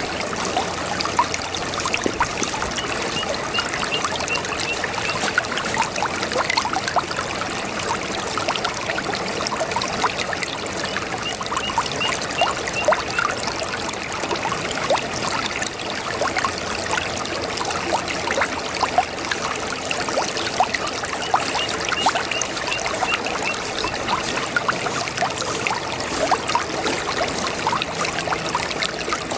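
A babbling brook: water running and trickling over stones, a steady wash of small gurgles and splashes. A faint high trill comes and goes a few times.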